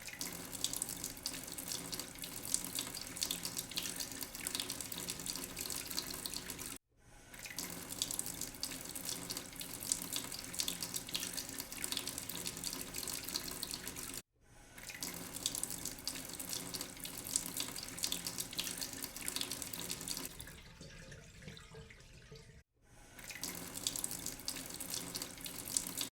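Tap water running into a sink with a steady splashing hiss, in four clips cut abruptly one after another. Toward the end of the third clip the splash turns softer and duller for a couple of seconds.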